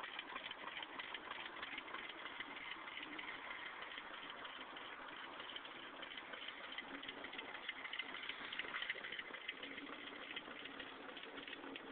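Homemade paint-can Stirling engine running with a fast, steady rattle of rapid ticks over a steady hiss.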